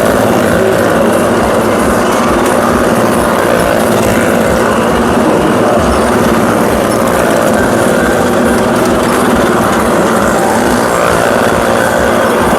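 Engines of the motorcycles and cars riding round the wall of a well-of-death show, running loud and steady throughout.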